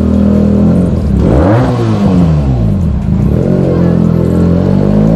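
Benelli 600i inline-four engine through an aftermarket iXiL exhaust, running at low revs. It is revved up once and back down about a second and a half in, then settles back to a steady low note.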